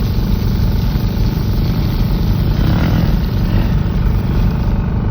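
A vehicle engine running steadily, its sound mostly low-pitched and unchanging.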